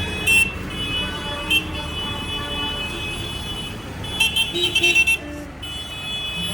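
Passing tractor engines rumbling, with a high steady electronic tone sounding over them that breaks off now and then. There are a few short sharp clacks, the loudest about four to five seconds in.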